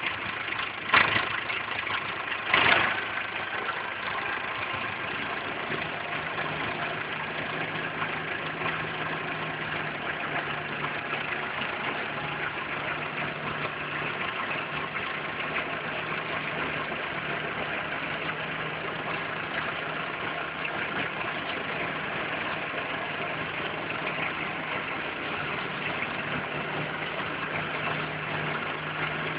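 Belarus tractor's diesel engine running steadily, with two loud sharp knocks about one and two and a half seconds in. A low steady hum joins about five seconds in.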